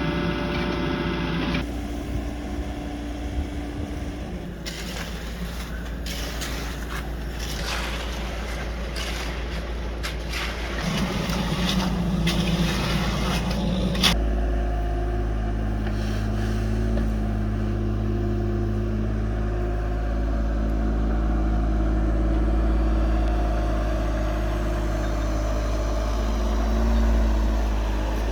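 Engine of heavy construction equipment running steadily, with clanks and scraping between about 5 and 14 seconds. The engine note changes abruptly at about 2 and 14 seconds.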